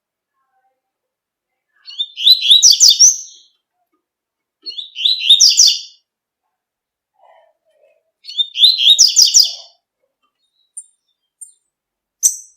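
Double-collared seedeater (coleiro) singing its tui-tui song: three quick phrases of rapid high notes, each about a second and a half long, followed by a few short high chips near the end.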